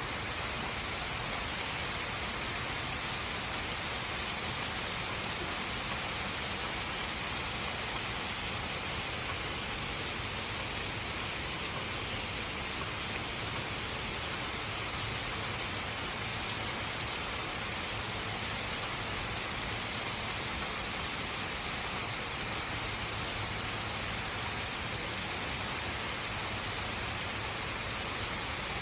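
Rain falling steadily, an even hiss with no change in strength.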